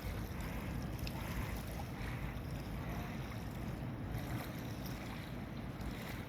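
Steady low rumble of a container ship's engines.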